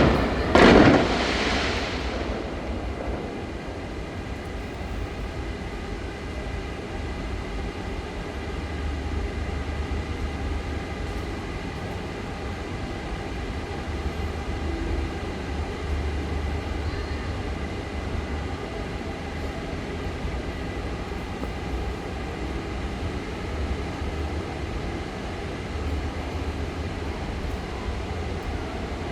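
An aerial firework shell bursts with a loud boom less than a second in, echoing and fading over about two seconds. A steady low rumble then carries on with no further bursts.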